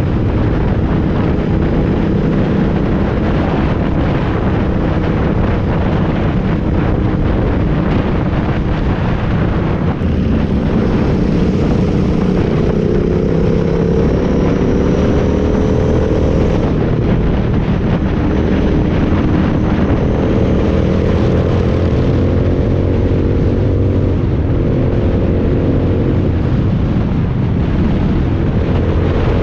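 Motorcycle engine running at road speed, with wind rushing over the microphone; the engine note climbs gently a few times.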